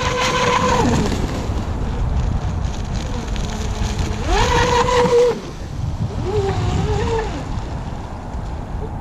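Electric motor of an RC flatbottom drag boat whining at a steady high pitch, then dropping off about a second in. Around four seconds in it runs up again, holds for about a second and falls away, followed by a lower, wavering whine near seven seconds. A steady low rush of wind and water lies underneath.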